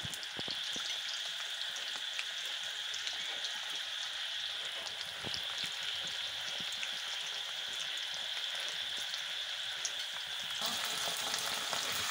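Sliced onions frying in hot mustard oil in an iron kadai: a steady sizzling hiss with light crackles. Near the end the sizzle suddenly grows fuller and a little louder, with raw duck meat now in the hot oil.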